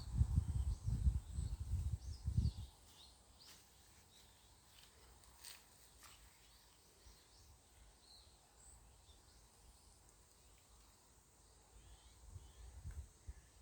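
Wind gusting against the microphone for the first couple of seconds and again near the end, with faint scattered bird chirps and a thin steady high drone of cicadas in the quieter stretch between.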